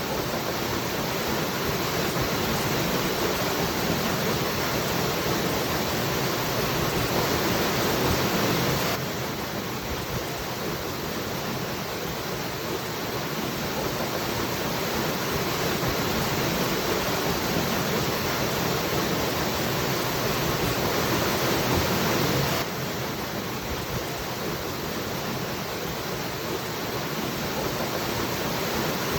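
Waterfall rushing as a steady wash of noise, with no other sounds. The level drops suddenly twice, about nine seconds in and again a little past twenty seconds, then slowly swells again after each drop.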